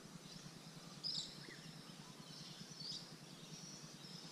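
Quiet creek ambience: faint, short bird chirps about a second in and again near three seconds, over a faint low background hum.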